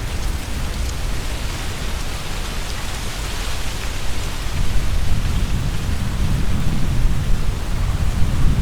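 Strong wind gusting through the trees, tree leaves rustling in a steady hiss, with low wind rumble on the binaural microphones that grows stronger about halfway through.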